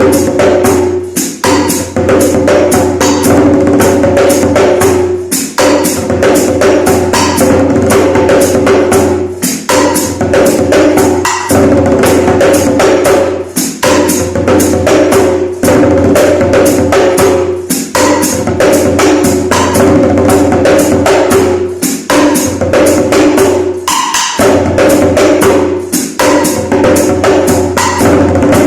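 Rapid hand drumming on a broken djembe, many quick strokes a second. Steady pitched tones sound underneath, and the playing pauses briefly every few seconds.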